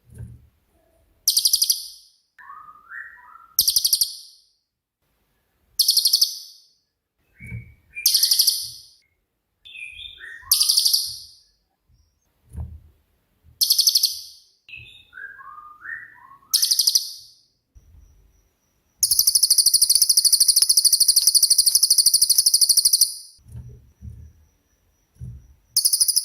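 Cililin songbird singing: short bursts of very high, rapid chirping every two to three seconds, with softer, lower twittering notes between them, and one longer high trill of about four seconds near the end.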